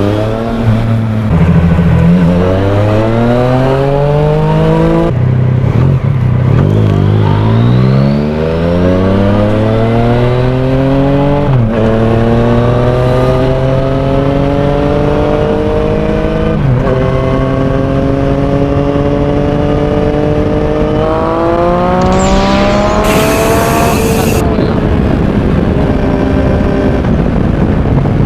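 Yamaha Tracer 900's three-cylinder engine through a Mivv titanium exhaust, pulling hard through the gears. Its pitch climbs, then drops abruptly at each quickshifter upshift, about four times. It then settles to a steady cruise, with a brief hiss shortly before.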